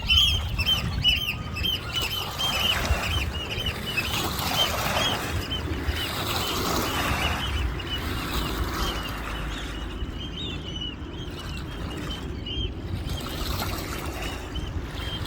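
Waterbirds calling with short, high-pitched notes repeated several times a second, unbroken throughout.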